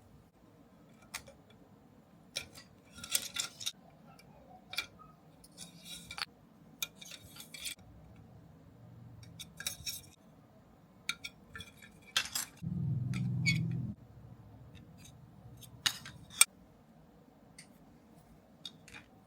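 Parts and tools of a Tamiya 1/14 R/C truck kit being handled during assembly: scattered sharp clicks and clinks, with a short low hum lasting about a second around two-thirds of the way through.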